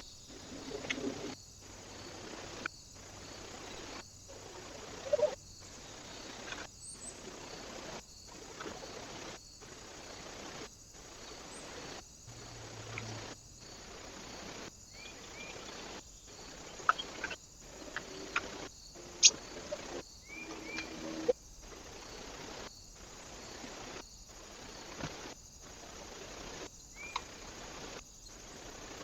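Birds at a feeder: a few short chirps and some sharp taps over a steady outdoor hiss. The sound breaks off in brief gaps about every second and a half.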